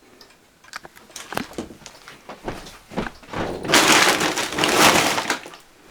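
A few light knocks and clicks, then a loud rustling scrape lasting nearly two seconds.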